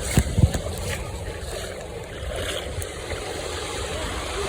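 Steady rushing of wind and sea, muffled through a phone sealed inside a plastic waterproof pouch, with a few sharp knocks from the pouch being handled in the first half second.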